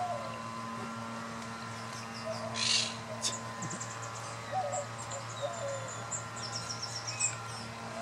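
Soft bird chirps and short warbles, with a high rapid twittering trill twice, over a steady low hum; a brief hiss comes about three seconds in.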